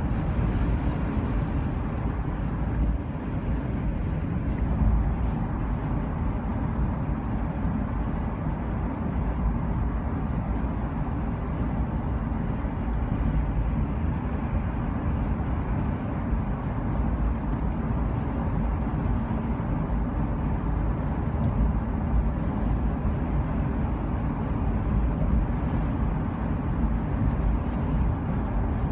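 Steady low rumble of a vehicle in motion, an even road-and-engine noise with no distinct events.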